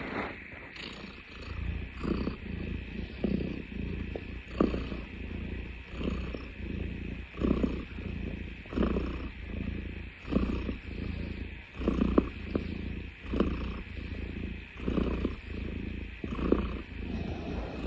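Domestic cat purring close to the microphone: a steady low rumble that swells in a regular rhythm about every second and a half, with each breath.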